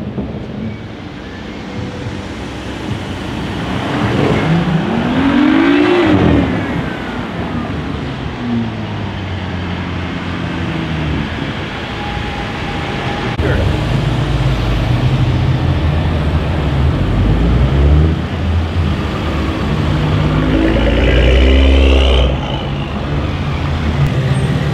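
Tuned BMW M2s' turbocharged straight-six engines revving hard as the cars accelerate past, the exhaust note climbing in pitch twice, once about five seconds in and again near the end where it cuts off sharply, with a deep exhaust rumble in between.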